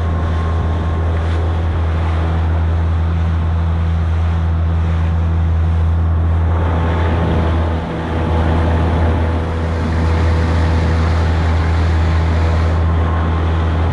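Outboard motor of an inflatable boat running at a steady cruising speed, a constant low hum, with wind on the microphone and water rushing past the hull. The engine note dips briefly about 8 seconds in.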